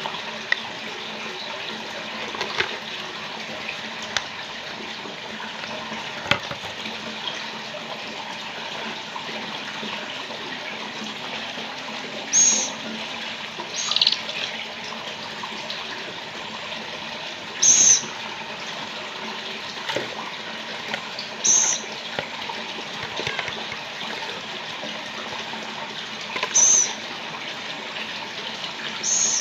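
Steady rushing noise like running water, with about six short, high-pitched calls or squeaks spread through the second half and a few faint clicks early on.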